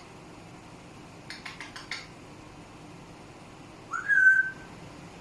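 Pet parrot whistling: one short whistle that rises and then holds steady, about four seconds in, the loudest sound here. Before it comes a quick run of about five clicks, about a second and a half in.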